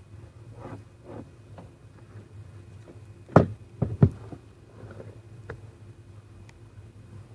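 Car windshield being cleaned by hand: scattered soft strokes and light knocks, with three sharp knocks in quick succession about three and a half seconds in, over a steady low hum.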